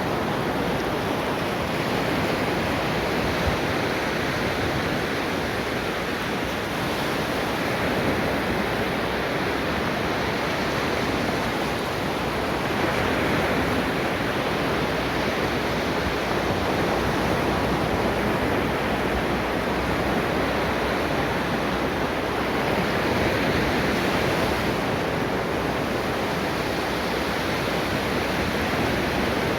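Ocean waves breaking and washing on the shore, a continuous rush of surf that swells gently every few seconds.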